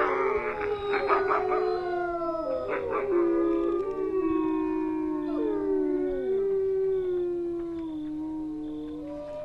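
A pack of wolves howling in chorus: several long howls overlap at different pitches, some sliding down as they fade, with short rough yelps mixed in during the first three seconds.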